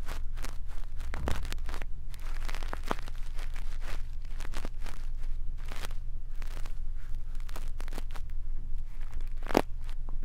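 A brush rubbed over a microphone for ASMR ear cleaning: irregular scratchy, crunchy strokes, the strongest one near the end, over a steady low hum.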